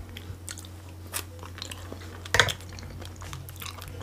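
Close-miked chewing of food, with many small wet mouth clicks and one louder smack about two and a half seconds in, over a steady low hum.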